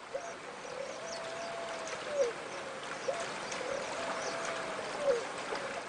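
A bird giving two long calls, each holding one steady pitch for about two seconds and then dropping, over a steady hiss like running water, with faint high chirps.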